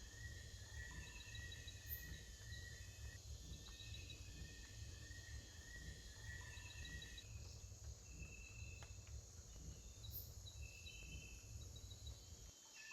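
Faint nature ambience: a steady high insect drone with repeated short trains of chirping calls at several pitches over a low rumble, the rumble dropping away near the end.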